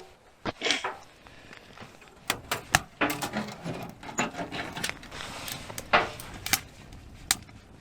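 Irregular sharp clicks and knocks with some rustling between them: handling noise around a small wood-burning tent stove as its fire is being lit with paper towel.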